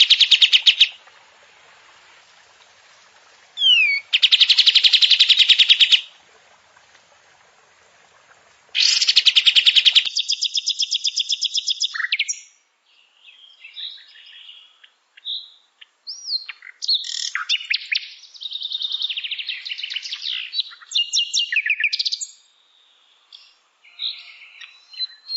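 Spliced masteran recording of songbirds: rapid, even trills lasting a few seconds each that start and stop abruptly, then a varied song of quick chattering notes and whistles from about halfway through.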